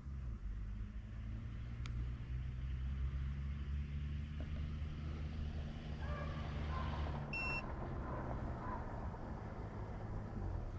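Vehicle engine running steadily with a low hum, cutting off right at the end. A short electronic beep sounds about seven seconds in.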